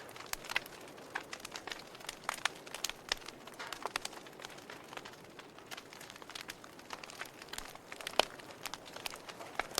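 Wood fire burning in a fireplace, crackling with irregular sharp pops over a low hiss; the loudest pop comes about eight seconds in.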